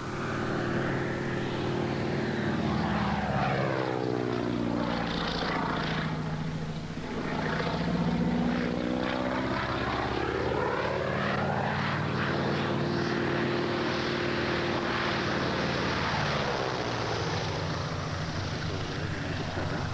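Propeller airplane engine running steadily. Its pitch falls and then rises again partway through.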